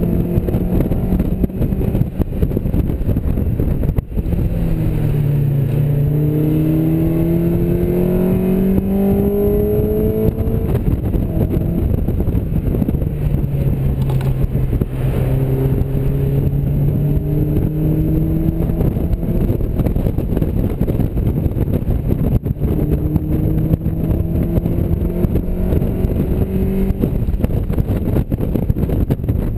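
Mazda MX-5's four-cylinder engine heard from the open cockpit at speed: the engine note climbs in several long runs as the car accelerates and falls back between them, over a constant heavy rush of wind and road noise.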